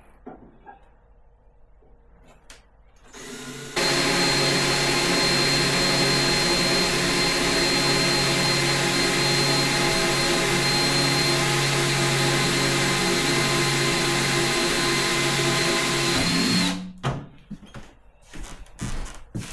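Electric drill running steadily at one pitch for about thirteen seconds while boring a hole in a refrigerator's mounting block, then stopping abruptly. There are light handling clicks before and after.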